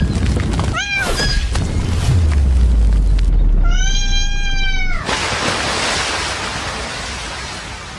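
A cat meowing: two or three short meows about a second in, then one long drawn-out meow around four seconds in, over a low rumble that gives way to a steady hiss.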